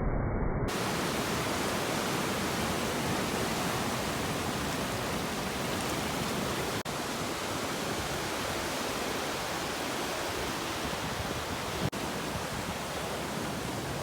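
Floodwater rushing steadily, a continuous even roar of water with two momentary breaks, about seven and twelve seconds in.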